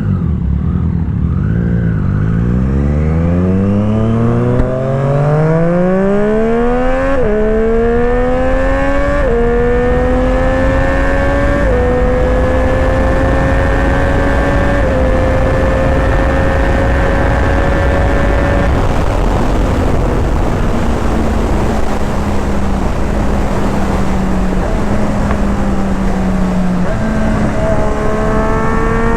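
Triumph Street Triple RS inline-triple engine through a Yoshimura Alpha T2 exhaust, accelerating hard from a pull-away through several quick-shifter upshifts, each a sharp drop in pitch, then holding a steady cruise. Its pitch steps down about two-thirds of the way through and climbs again near the end, over steady wind rush.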